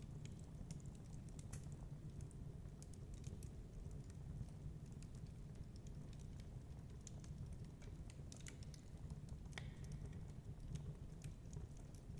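Wood fire crackling in a fireplace: irregular sharp pops and snaps over a steady low rumble of wind.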